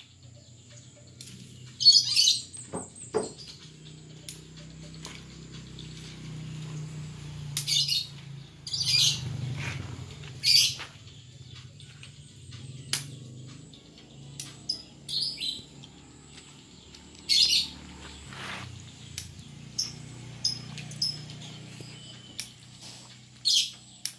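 A bird chirping in short high calls every few seconds, with a few brief sharp clicks in between.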